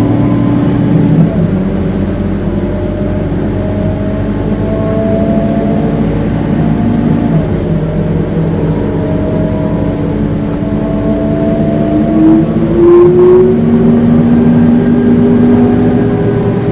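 Scania K230UB city bus heard on board, its diesel engine and drivetrain running under load with a howling whine that climbs slowly in pitch as the bus accelerates. About twelve seconds in the whine steps up in pitch and then holds steady.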